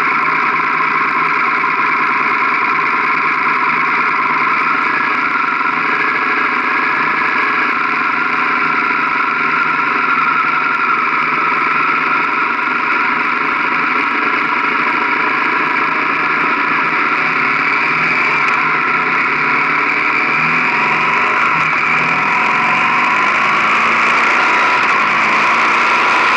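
Motorcycle engine running steadily close to the microphone. Its pitch holds fairly level at first, then rises and falls more in the last several seconds as the bike is ridden along.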